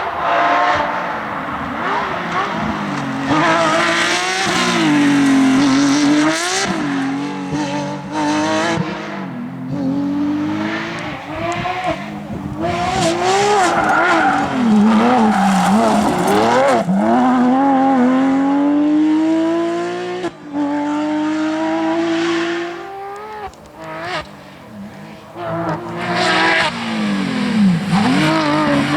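Porsche 911 GT3 rally car's flat-six engine revving hard at full throttle, its pitch climbing again and again, with drops between the climbs as it changes gear.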